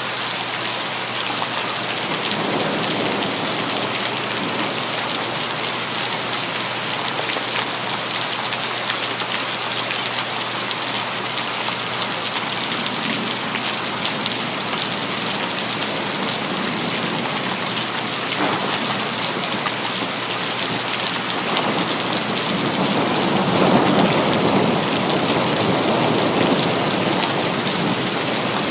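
Steady, heavy rain falling on city surfaces as a dense, even hiss. A low rumble of thunder swells in the last third and then fades.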